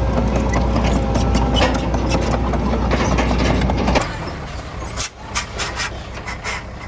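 Heavy diesel earthmoving machinery running loud and steady. About four seconds in it drops abruptly to a quieter engine sound, with sharp metallic clicks and clanks.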